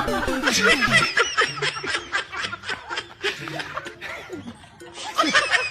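Snickering, chuckling laughter in quick short bursts over faint background music.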